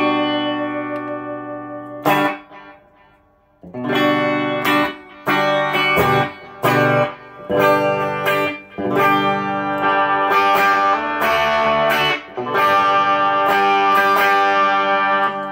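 Electric guitar, a single-coil Fender Stratocaster played loud through a Fender Twin Reverb amp with effects pedals. A ringing chord dies away about two seconds in, then after a short pause come stabbed chords with brief breaks, turning to fuller sustained strumming for the last few seconds.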